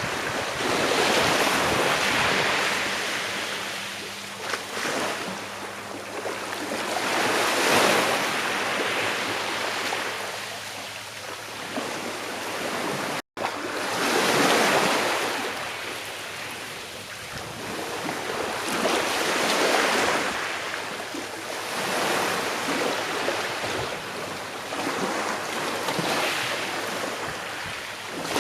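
Calm sea waves washing onto a shore, each wash swelling and fading over a few seconds. There is a momentary dropout to silence about halfway through.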